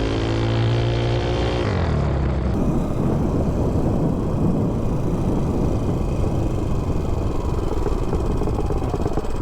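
Tillotson 263cc single-cylinder engine on an MB200 mini bike with a super pipe exhaust, revving hard at full throttle on a 0-to-30 acceleration run, its note rising. From about two seconds in, the engine note is buried under a loud, steady rushing noise as the bike runs at speed.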